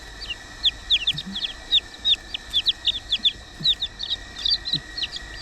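Chicks peeping continuously: a dense run of short, high, downward-slurred peeps, several a second.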